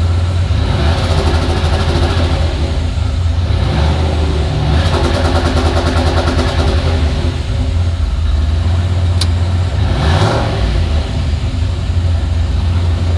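Turbocharged 5.3 L LS V8 revved in several bursts against an MSD 8733 two-step launch controller set to about 2,000 rpm. The ignition cuts in and out to hold the revs, a rapid stutter, with the engine idling between bursts.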